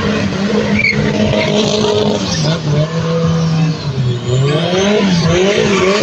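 Loud motor-vehicle engine running and being revved, its pitch dipping and climbing again several times.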